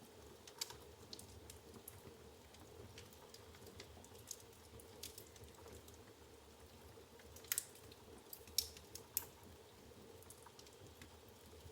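Firewood burning in a fireplace, crackling faintly with scattered small snaps. A few sharper pops come about two-thirds of the way through.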